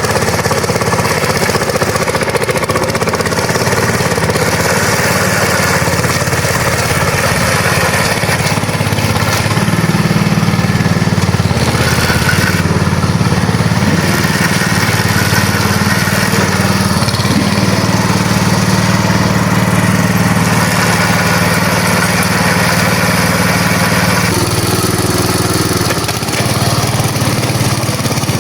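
Small engine running steadily, getting a little louder about ten seconds in and easing back slightly near the end.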